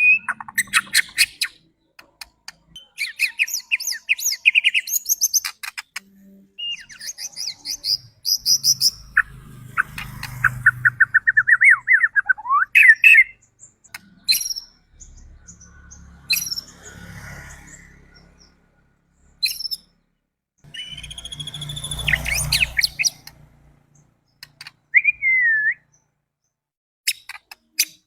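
White-rumped shama (murai batu) singing: varied phrases of rapid trills, gliding whistles and sharp chattering notes broken by short pauses, with a low rumble under some phrases.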